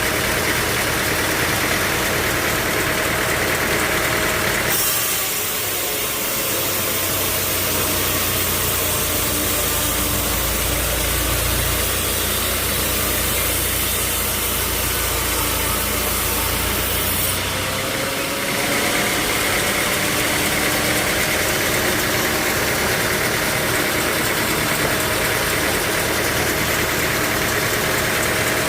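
Sawmill machinery running steadily, with an engine-like drone. The sound changes abruptly about five seconds in to a low hum with a high hiss, then switches back near eighteen seconds.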